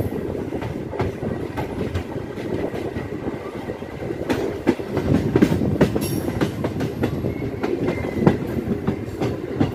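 MEMU electric passenger train running on the track, heard from its open doorway: a steady rumble of wheels on rails with clicks and clacks over the rail joints, which come more often from about halfway through.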